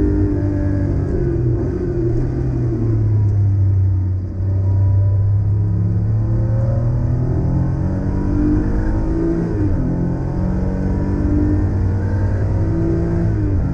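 Porsche 911 Carrera 3.2's air-cooled flat-six heard from inside the cabin, first off the throttle slowing for a corner. It then accelerates hard with rising revs, upshifting about ten seconds in and again near the end.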